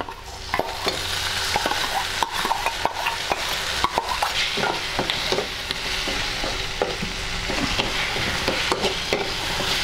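Chopped onions and tomatoes frying in hot oil in a metal kadai, a steady sizzle that grows louder about half a second in as the tomatoes go in. A metal spoon scrapes them from a steel bowl and stirs them, with frequent short clicks of spoon on metal.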